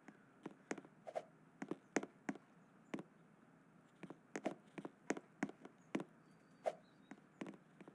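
Faint, irregular clicking and tapping from parrots, a few taps a second, with three brief soft chirps.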